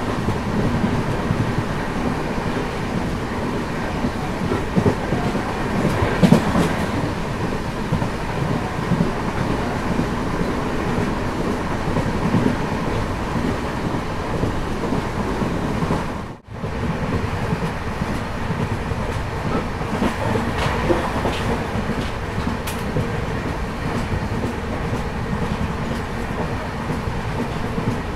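Passenger train coaches running along the track, a steady rumble with the clickety-clack of wheels over rail joints. The sound drops out for a moment about sixteen seconds in.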